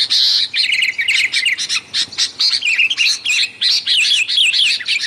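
Sooty-headed bulbuls (kutilang) calling noisily: a busy, unbroken run of short chirps and quick warbling notes.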